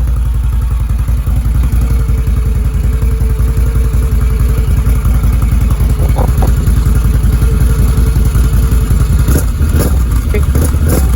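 Can-Am Renegade 850 ATV's Rotax V-twin running on its stock exhaust at a steady idle, with a fast, even low pulse. A few short sharp sounds come near the end.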